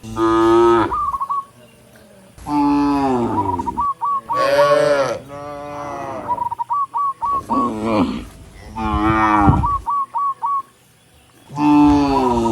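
Cattle mooing, about six long moos one after another with short pauses between them. Between the moos come runs of quick, high chirping notes.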